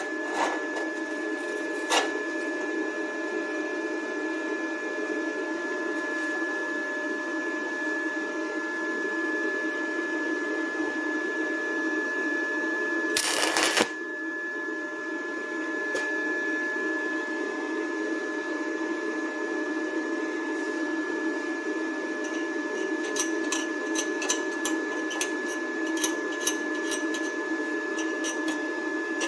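Inverter welding machine running with its cooling fan and a steady high whine, while a 6013 stick electrode is struck at about 32 amps: a brief loud burst about 13 seconds in, then a run of sharp crackles and clicks near the end as the arc strikes and sputters.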